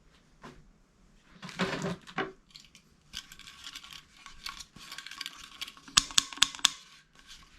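Small hard objects being handled: a couple of knocks, then irregular clicking and rattling, with a quick run of sharp clicks about six seconds in.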